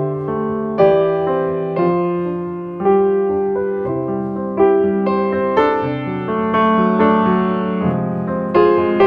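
Background piano music: slow sustained chords and notes, a new one struck about every second.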